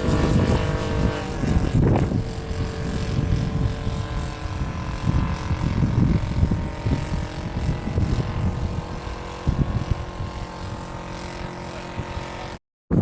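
Engine and propeller of a 1/4-scale radio-controlled Cub model plane droning in flight, a steady tone that grows fainter after about a second, over heavy wind buffeting on the microphone. The sound cuts out briefly near the end.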